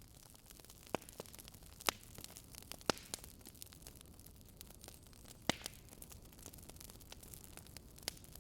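Wood fire crackling: sharp, irregular pops, a few of them louder, over a steady low rumbling noise bed.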